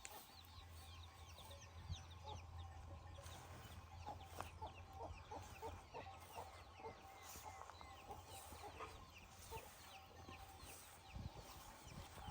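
Faint hens clucking in a quick run of short notes, with small birds chirping high and fast in the background.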